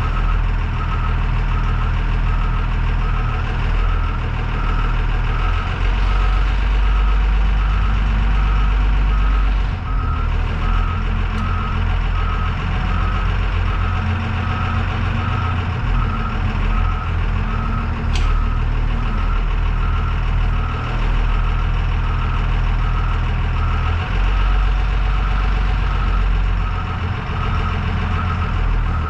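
School bus's 24-valve Cummins diesel running under load as the bus backs up, with its reversing alarm beeping steadily and evenly throughout. The engine note rises and falls a few times as the bus is worked across soft ground.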